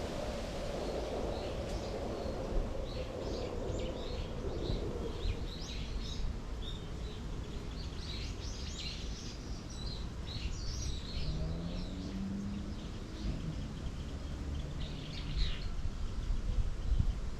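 Small birds chirping and twittering in quick, repeated short calls over a steady low background rumble.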